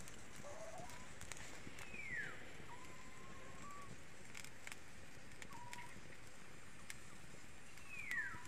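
A bird calling: a falling whistle, heard twice about six seconds apart, with shorter level whistles between. Faint crackling of a wood fire under it.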